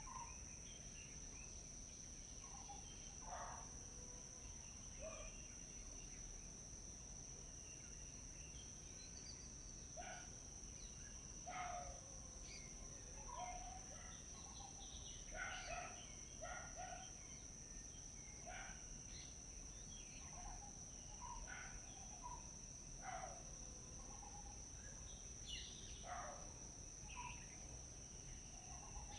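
Forest birds calling in short, scattered chirps and whistles, a few loud calls at a time, over a steady high insect drone such as crickets.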